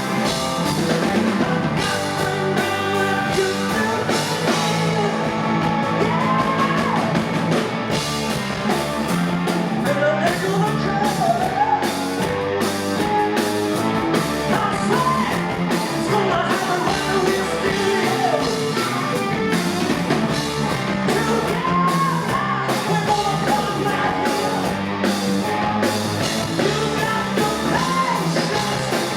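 Live rock band playing, loud, with a male lead vocal singing over electric guitars and a steady drum beat, as heard in the hall from the audience.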